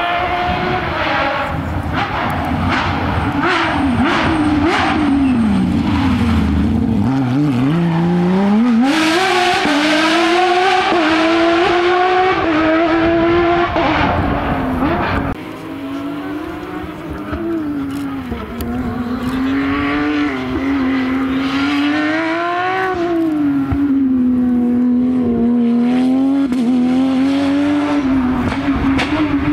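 Porsche 911 rally car's flat-six engine at high revs on a stage, its pitch rising and falling over and over as the driver accelerates, lifts and changes gear. The sound changes abruptly about halfway through.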